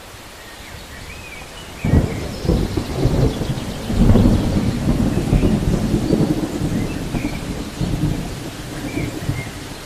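Steady rain with a sudden thunderclap about two seconds in, followed by low rolling thunder that swells again and then slowly fades.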